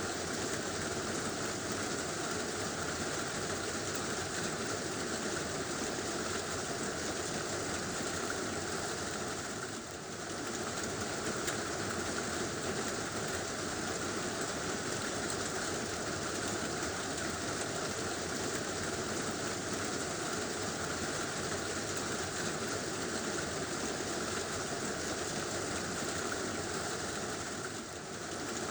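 Heavy rain falling on a tin roof, a dense steady patter that dips briefly about ten seconds in and again near the end.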